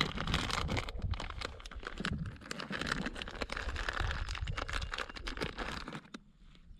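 Plastic Skittles candy packet crinkling as it is handled, a dense crackle of many small clicks that dies down near the end.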